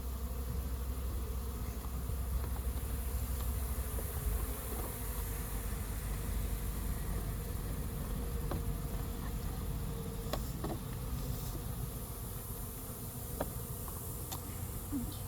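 Swarm of honey bees buzzing steadily around an open hive. Light clicks or knocks sound a few times in the second half, from the hive's frames or box being handled.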